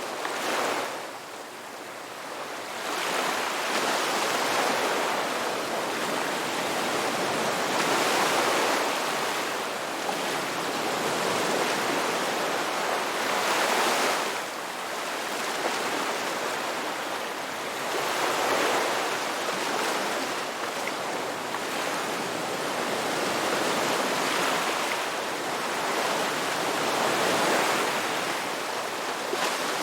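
Ocean surf: waves breaking and washing in, a steady rush that swells and eases every few seconds.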